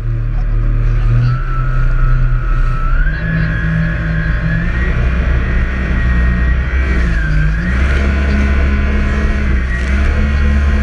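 Jet ski engine running hard, its pitch climbing in steps over the first few seconds, with a whine above the engine note; the pitch dips briefly about seven seconds in, then rises again.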